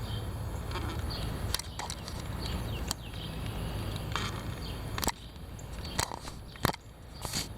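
Strong wind buffeting the microphone with a low rumble, broken by several sharp clicks or knocks; the gusting eases after about five seconds.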